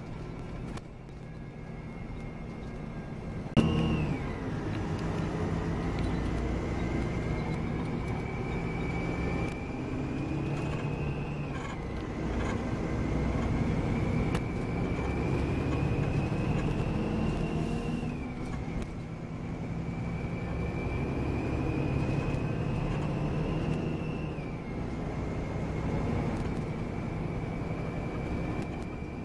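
Volvo B9R coach running under way, heard from on board: a steady engine drone under a high whine that climbs slowly and drops sharply four times, as the coach changes gear. A loud knock comes about three and a half seconds in.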